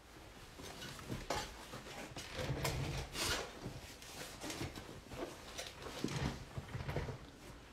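Irregular knocks, rubs and rustles of objects being handled on a table, close to the microphone.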